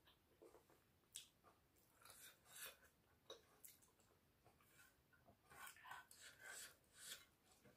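Faint close-up chewing of a mouthful of rice and pork: soft, wet mouth sounds and lip smacks in irregular short bursts.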